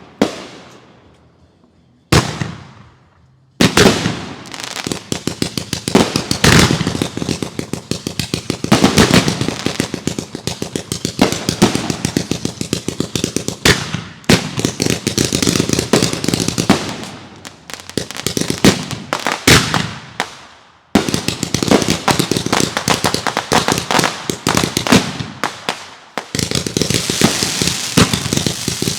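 Fireworks going off: two single sharp bangs with trailing echo in the first few seconds, then a long, dense barrage of rapid-fire pops and crackling. The barrage halts abruptly about two-thirds of the way through, then resumes.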